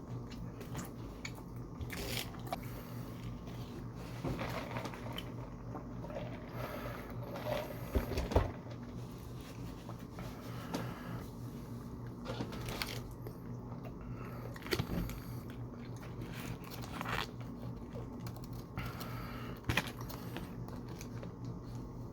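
Close-miked eating of fast food: irregular bites and crunches with chewing between them, the loudest crunches about eight seconds in. A steady low hum runs underneath.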